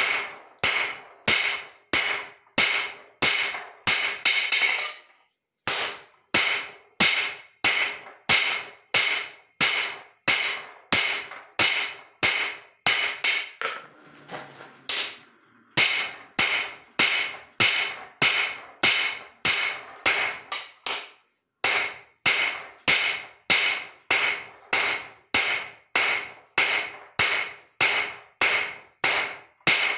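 Hand hammer striking leaf-spring steel on an anvil, steady blows about two a second, each ringing out. The hammering breaks off briefly about five seconds in and again for a couple of seconds around the middle.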